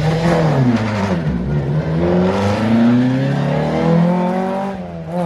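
Rally car engine revving hard on a stage: the pitch dips about a second in, climbs and holds, then eases off near the end.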